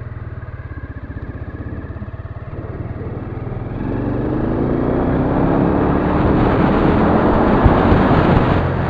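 Storm Indigo motorcycle engine running under way; about four seconds in it revs up and accelerates, its pitch rising and then holding, easing off slightly near the end.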